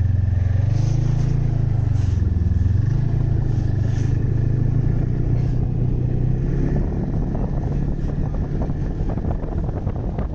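Snowmobile engine pulling away, its pitch rising just after the start, then running steadily at speed and easing off slightly near the end.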